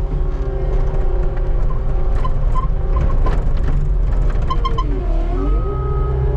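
Skid steer engine running steadily under work; its pitch sags for a moment about five seconds in, then recovers. Some knocks and a few short high beeps of the backup alarm come through.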